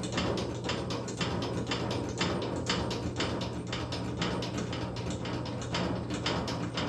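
Harbor Freight hydraulic motorcycle lift being pumped up with its foot pedal: a continuing run of short mechanical clicks and knocks, roughly two a second, over a low steady hum.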